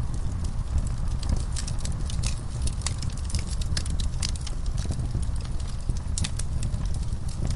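Wood fire crackling, with many sharp irregular pops over a steady low rumble, mixed with horses shifting in a stall.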